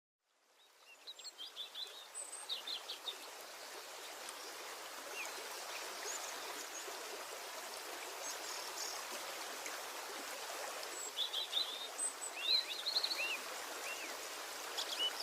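Songbirds chirping and trilling in short, quick phrases and arching whistles, in bursts near the start and again in the last few seconds, over a steady rushing background noise.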